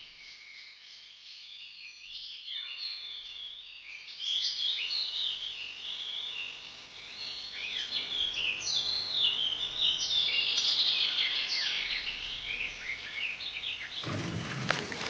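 Songbirds chirping and singing, many short calls overlapping. Near the end a loud crackling, rustling noise sets in.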